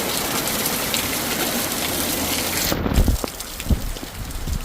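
Heavy rain pouring down in a dense, steady hiss. About three seconds in it abruptly becomes quieter, with scattered low thuds.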